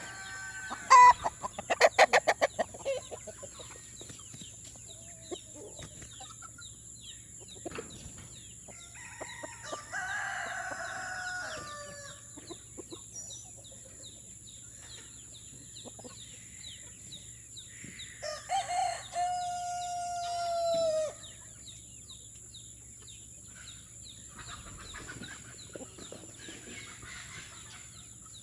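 Chickens clucking and roosters crowing: a quick run of loud clucks about a second in, a crow about ten seconds in, and a longer crow held and then falling near nineteen seconds.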